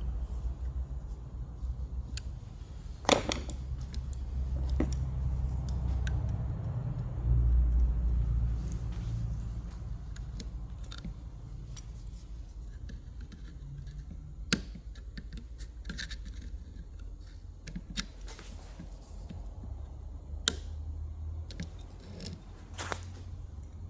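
Small metal alternator parts and hand tools clicking and clinking as they are handled on a workbench, with scattered sharp knocks over a low handling rumble.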